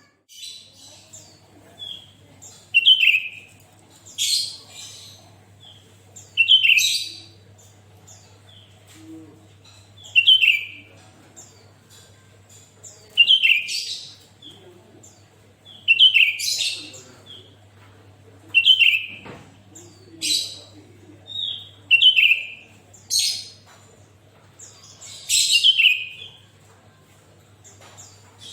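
Sooty-headed bulbul (kutilang) singing: short, bubbly chirping phrases repeated every two seconds or so.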